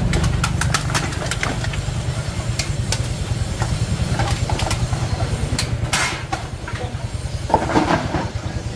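A steady low mechanical rumble, like an engine running, with sharp clicks and knocks scattered over it, thickest in the first two seconds.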